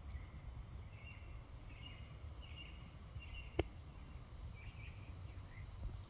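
Faint bird calls, a run of short chirps roughly once a second, over a steady low outdoor rumble, with one sharp click about halfway through.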